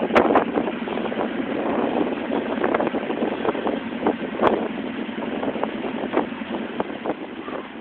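A vehicle running, heard from inside as a steady rumbling noise, with scattered clicks and knocks and a sharp knock just after the start and another about four and a half seconds in.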